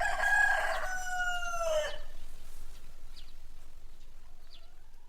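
A rooster crowing: one loud, drawn-out crow lasting about two seconds that drops in pitch at the end, followed by a few fainter short calls.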